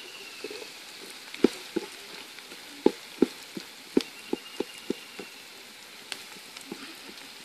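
Shallots frying in coconut oil in a metal pot, a steady sizzle, with a wooden spatula stirring them and knocking against the pot in a run of sharp knocks through the middle.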